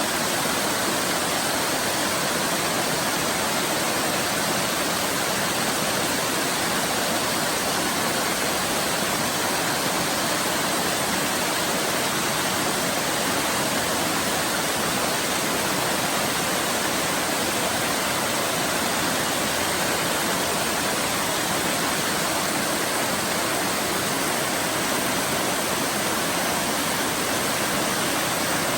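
Waterfall, water falling and splashing in a steady, even rush with no change.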